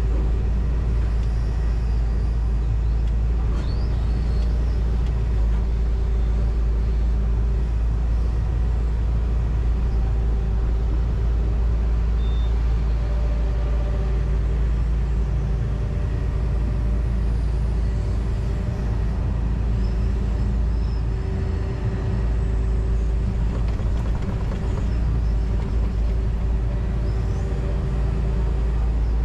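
John Deere 245G excavator's diesel engine and hydraulics running steadily, heard from inside the operator's cab: a constant deep drone with a steady hum over it.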